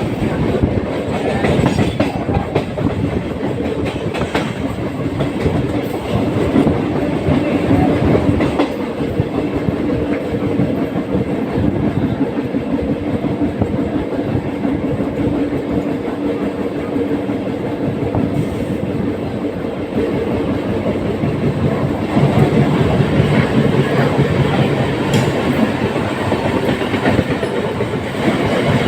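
Mumbai suburban electric local train running, its wheels clattering over the rail joints, with a steady low whine through the middle stretch.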